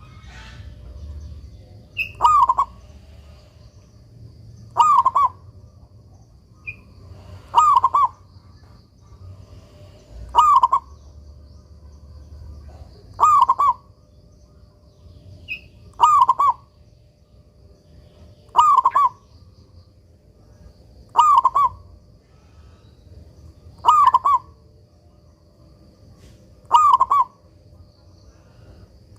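Zebra dove (perkutut) singing its cooing song: ten short, even phrases, one about every three seconds.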